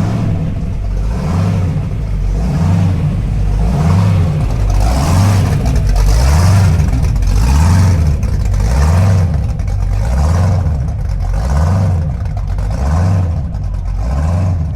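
A car engine revving over and over, the pitch rising and falling about every second and a half.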